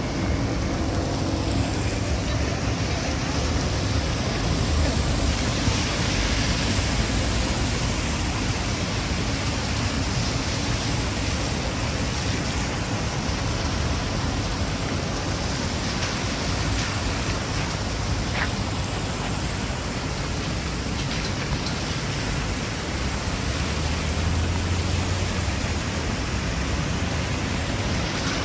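Heavy rain falling steadily, an even hiss. A low rumble swells briefly near the end.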